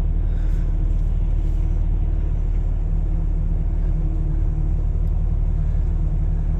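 Steady low engine and road rumble heard from inside a vehicle's cab.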